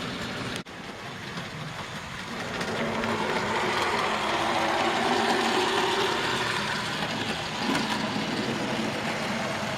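00 gauge model trains running on the layout: the rumble of wheels on the track with the faint hum of small electric motors, growing louder toward the middle and easing off again.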